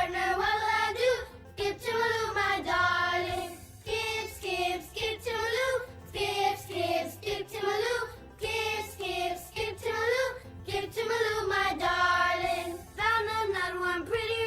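A children's song, sung by a high child-like voice over a backing track.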